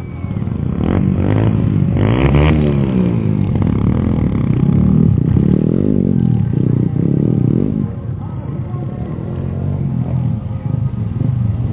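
Motocross dirt bike engines revving hard, several at once, their pitch rising and falling as they accelerate and go past. Loudest through the first few seconds, easing off somewhat near the end.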